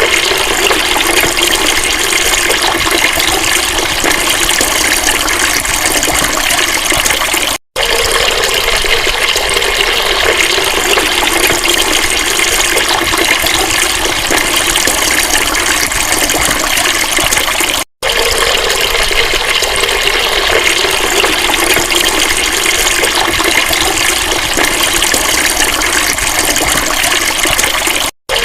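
Steady, loud rush of flowing water, cutting out briefly three times, about every ten seconds.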